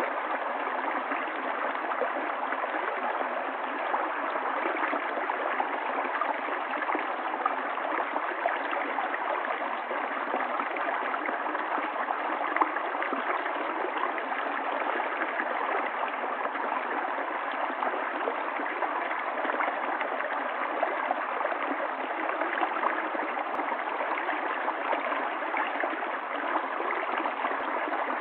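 Water of a stream running, a steady, even rush with no change.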